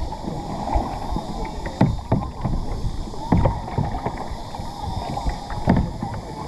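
Kayak being paddled: water splashing and sloshing, with a few irregular knocks and thuds of the paddle.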